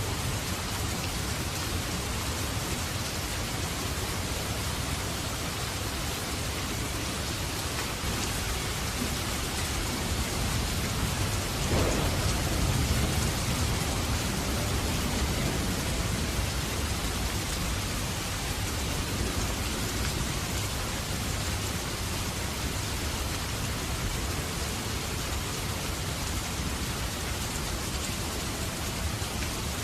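Steady rain falling, an even hiss. A low rumble swells in under it about midway through and fades over a few seconds.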